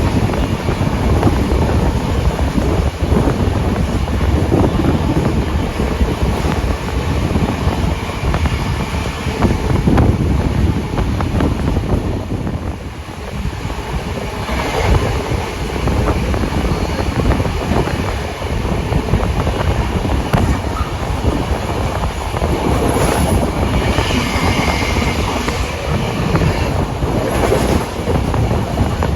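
Steam-hauled passenger train running along the line, heard from on board: continuous wheel and track noise with knocks over the rail joints.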